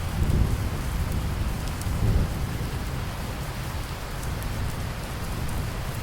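Steady rain hissing, with a low rumble of thunder that swells just after the start and again about two seconds in, then eases off.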